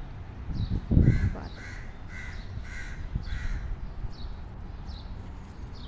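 A bird calls five times in a row, about half a second apart, starting about a second in, with fainter high chirps before and after. A brief low thud about a second in is the loudest moment.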